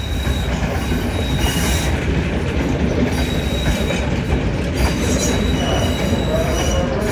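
Passenger coaches of a diesel-hauled train rolling slowly into the station, with a steady low rumble and high metallic wheel squeals that come and go. A lower squeal joins them after about five seconds.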